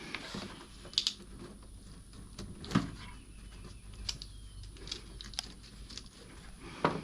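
Scattered light clicks and knocks of hands handling wiring and plastic parts of a leaf blower's switch circuit, with sharper knocks about a second in, near the middle and near the end.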